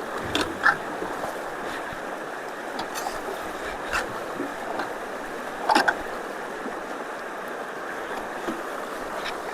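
Rushing floodwater pouring steadily through a road culvert, with a few sharp knocks and clacks over it, the loudest about six seconds in.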